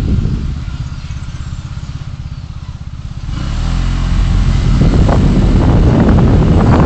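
Engine idling with a fast, even low pulse while the wind and road noise die down. About three seconds in, a low rumble and noise build back up as a vehicle pulls away and gathers speed.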